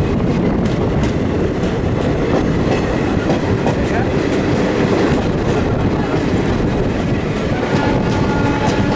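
Passenger train running along the track, a steady rumble with the wheels clicking rapidly over the rail joints.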